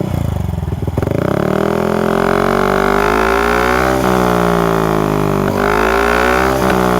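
Yamaha NMAX scooter engine blowing through a stainless Proliner Pro SV full-system exhaust with no dB killer, a deep, bassy note. It idles briefly, is revved up about a second in and held high, and dips briefly twice near four and five and a half seconds in before climbing again.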